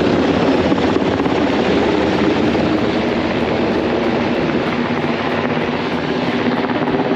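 Rescue helicopter hovering close by: a loud, steady rotor and engine noise with an even pulsing beat.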